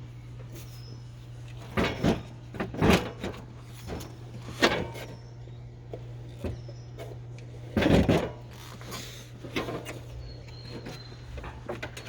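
Parts of a riding mower being handled during repair work: a series of irregular clunks and rattles, the loudest about eight seconds in, over a steady low hum.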